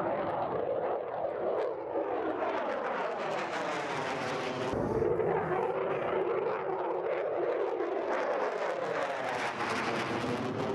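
F-16 fighter jet engine noise, a steady jet rush with a hollow whoosh that sweeps down and back up in pitch as the jets pass. The sound changes abruptly about halfway through, then sweeps the same way again.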